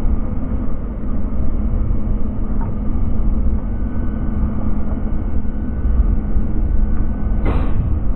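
Steady loud rumble of a passenger train running on the track, with a short burst of noise near the end.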